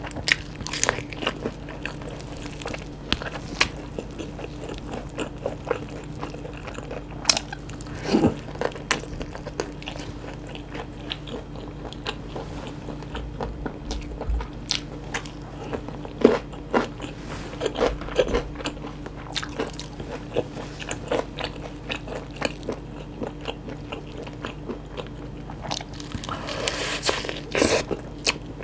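Close-miked biting and chewing of sauce-coated Korean yangnyeom fried chicken, with irregular crisp crunches of the fried coating between softer chewing. A denser run of loud crunches comes near the end.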